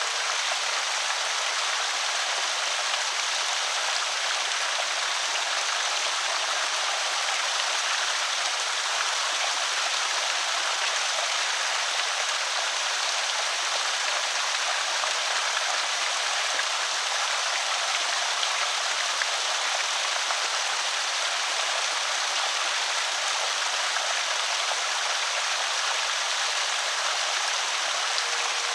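Water pouring over a small creek spillway: a steady, even rush and splash with no breaks.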